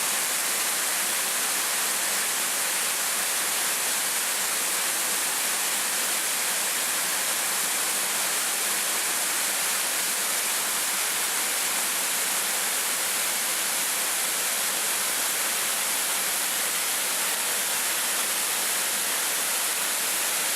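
Waterfall rushing steadily, an even, unbroken sound of falling water. The falls are running hard after plenty of recent rain.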